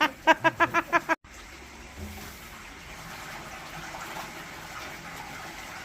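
A man laughing in a short burst of about six quick "ha"s, which cuts off suddenly about a second in. A steady hiss with no rhythm follows.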